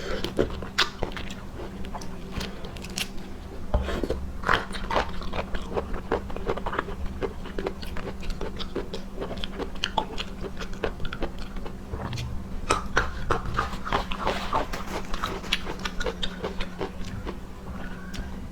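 Close-up chewing and biting of raw prawns: a dense, irregular run of small clicks and crunches, over a faint steady low hum.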